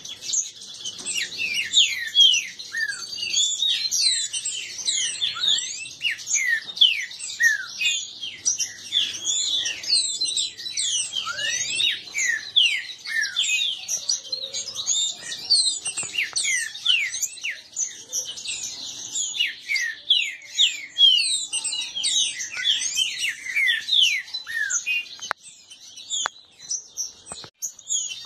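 Several caged green-winged saltators (trinca-ferro) calling against each other in a fast, continuous jumble of sharp, mostly falling whistled notes: rival birds in a song dispute.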